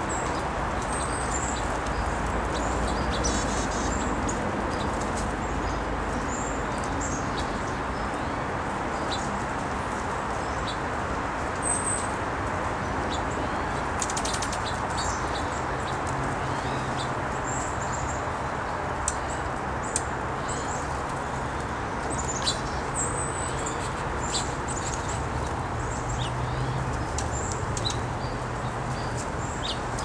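Small birds giving short, high chirps here and there over a steady outdoor background rumble, with a few sharp clicks.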